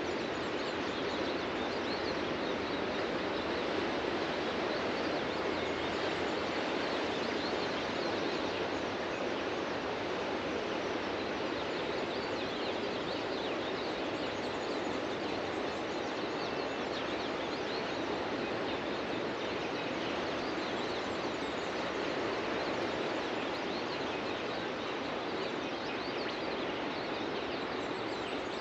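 Ocean surf breaking and washing onto a beach in a steady, continuous roar of white water, with faint bird calls above it.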